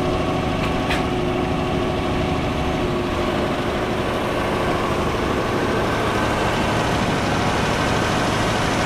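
An engine idling steadily, with a short click about a second in.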